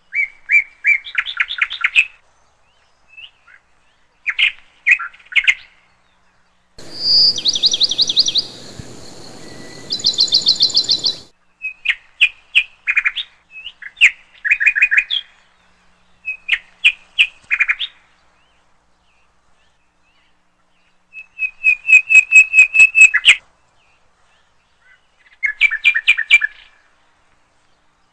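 A songbird chirping and singing in short high phrases of quick trilled notes, with pauses between phrases. The longest and loudest trill comes a little past the middle.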